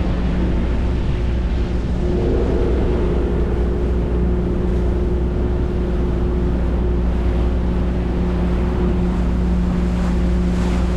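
Ferry under way: its engine drones steadily with a low, even hum, under a constant rushing hiss of wind and water.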